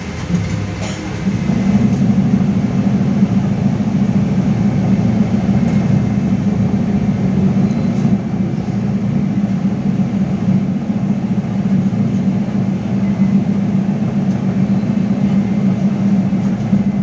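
Inside a LiAZ-5280 trolleybus on the move: a click about a second in, then the low drone of its DK-213 traction motor and road rumble grows louder and holds steady.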